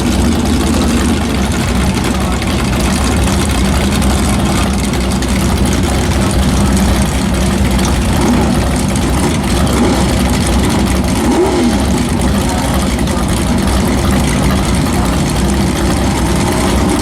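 A car engine running steadily under a constant hiss of noise, with no clear revs or stops.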